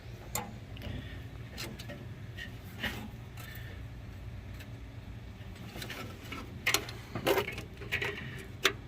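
Wrench clinking and tapping on the starter nuts and bolts of a 1952 Chevy truck: scattered short metallic clicks, a quicker cluster of sharper ones near the end, over a steady low hum.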